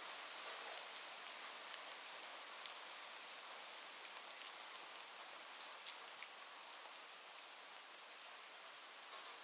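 Steady rain falling, with a dense hiss and scattered individual drop ticks.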